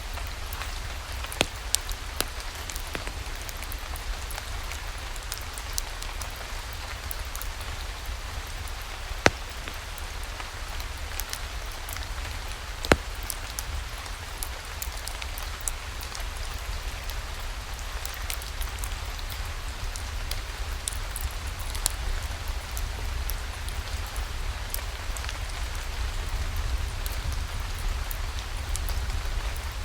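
Steady rain falling, a constant soft hiss with scattered sharp single-drop clicks.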